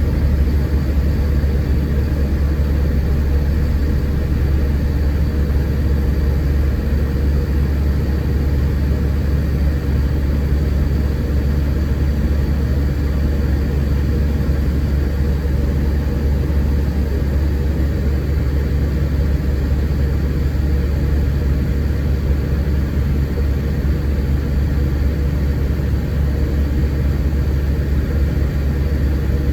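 Scania K410 coach's diesel engine and road noise heard from inside the bus while it is under way: a steady low rumble with no sudden changes.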